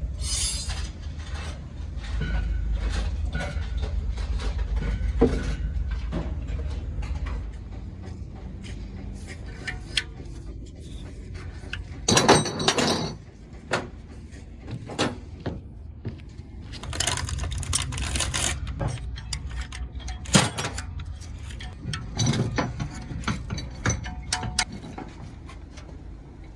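Mechanical work sounds: a low steady rumble for the first seven seconds or so, then scattered metallic clicks and knocks with a few short noisy bursts, like hand tools being worked on metal engine parts.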